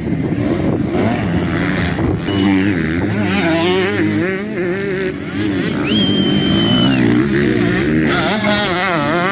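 Motocross bike engines revving hard, their pitch rising and falling as the riders work the throttle through the track.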